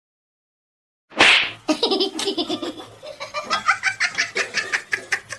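Silence, then about a second in a sudden loud sound, followed by someone laughing hard in quick, repeated ha-ha's.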